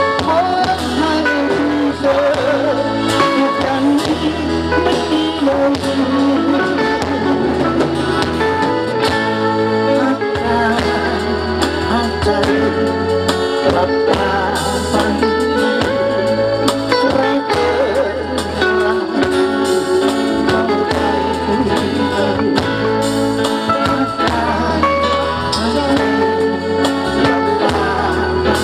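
A live band plays a song: guitar over a steady bass line and beat, with a singer's voice. The music runs loud and even throughout.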